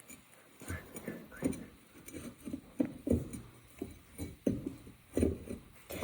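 A run of irregular light knocks and taps, a dozen or so, with louder ones about three seconds in and near the end.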